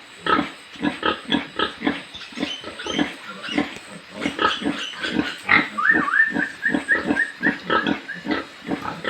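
Pigs grunting in a pen, many short grunts overlapping at about three or four a second. A higher wavering call rises over them for a couple of seconds past the middle.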